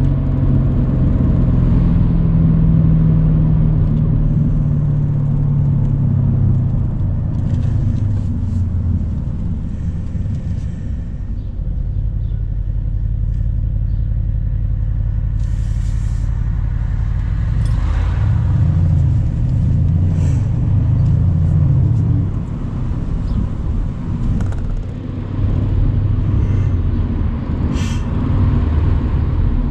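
Mercedes-AMG C63's V8 engine running under way with the top down, its pitch shifting up and down with throttle and gear changes, over road and wind noise.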